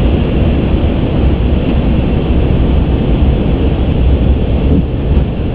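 Steady flight-deck noise of an Airbus A350 in flight: a deep, even rumble with a hiss of airflow over it.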